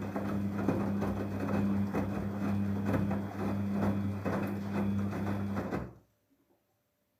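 Daewoo DWD-FT1013 washing machine running its Hand Wash 30° programme: a steady motor hum with irregular clicks and knocks from the turning load, cutting off suddenly about six seconds in.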